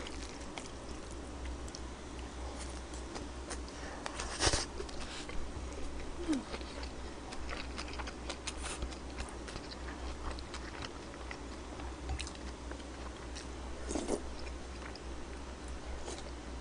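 A person chewing and eating close to a microphone: soft, wet mouth sounds and small scattered clicks. There are a couple of louder sounds about four and a half and fourteen seconds in, over a faint low hum.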